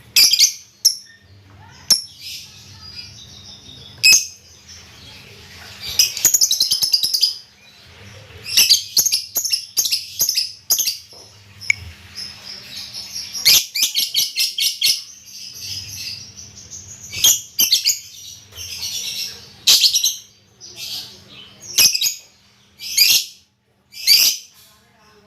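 A songbird singing: bursts of high chirps and fast trills, with short pauses between phrases.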